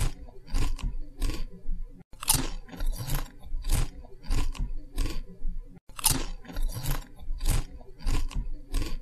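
Close-up crunching and chewing of crisp food, a sharp crunch every few tenths of a second. The same run of crunches seems to repeat about every four seconds, with a brief cut between repeats.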